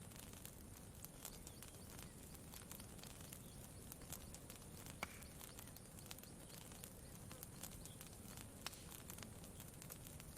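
Faint campfire crackling: scattered irregular pops and snaps, one sharper pop about halfway through, over a soft steady low background.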